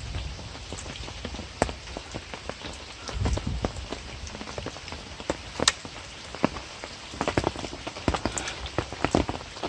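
Light rain falling, an even patter with scattered sharp drop taps close by, one louder tap near the middle.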